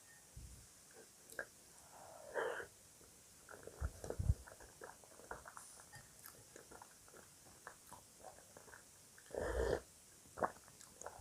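Close-miked eating sounds: chewing with many small crisp clicks, broken by a few louder mouth sounds about two and a half and nine and a half seconds in.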